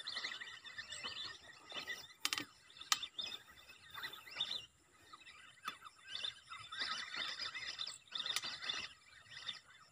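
Small birds chirping and twittering in quick, overlapping calls, with a few sharp clicks about two, three and eight seconds in.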